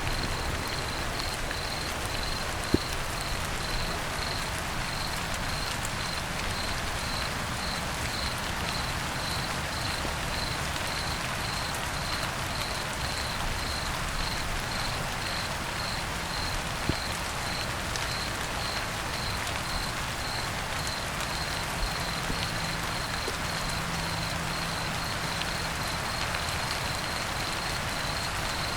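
Steady rain falling, with an occasional single louder drop. A cricket chirps about twice a second throughout.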